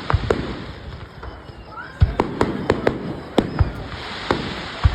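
Fireworks display: a rapid string of sharp bangs and booms, several a second, with the heaviest booms about two seconds in and again near the end.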